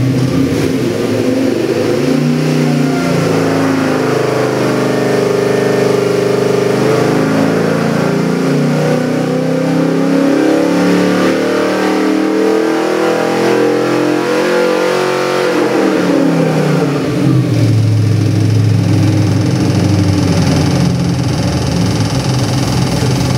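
Small-block Ford 302 V8 with multi-port fuel injection running on an engine dyno during a sweep pull. Its pitch climbs steadily under load for about fifteen seconds, then drops quickly and settles into a steady idle for the last several seconds.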